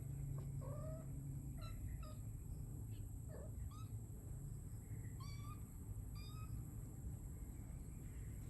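Cats meowing: several short meows, a few seconds apart, the later ones higher-pitched, over a steady low background rumble.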